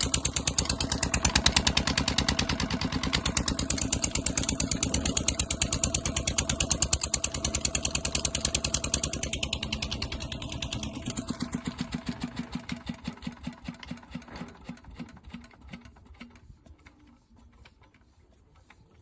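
Old Petter diesel engine running with rapid, even firing beats, then slowing to separate, widening thumps and fading out about three-quarters of the way through as it runs down to a stop.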